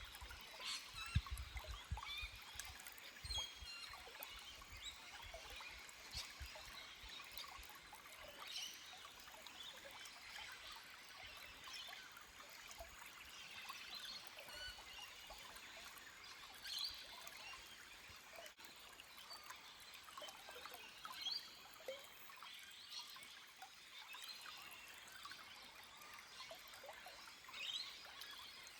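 Small forest stream trickling and splashing over rocks, faint, with birds chirping now and then. A few low thumps about a second in.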